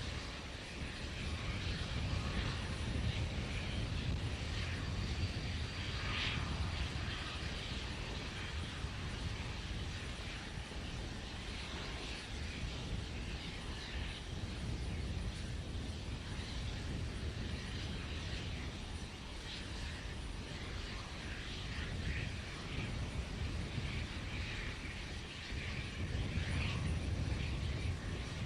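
Steady rumbling noise with a fainter hiss above it, without distinct events.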